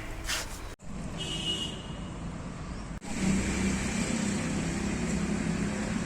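Outdoor background noise, broken off abruptly twice, then a motor vehicle's engine running steadily from about three seconds in.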